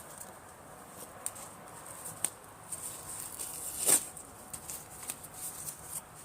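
Driftwood campfire crackling with scattered sharp pops over a low hiss, and one loud pop about four seconds in.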